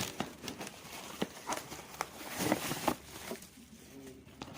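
Irregular clicks, knocks and rustling from handling objects, busiest about two to three seconds in.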